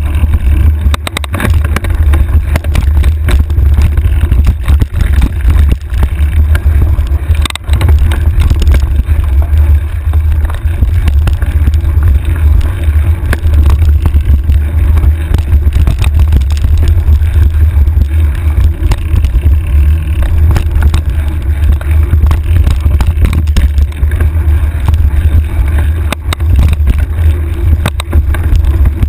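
Steady wind rumble buffeting a handlebar-mounted camera microphone on a mountain bike riding a trail, with scattered clicks and rattles from the bike over rough ground.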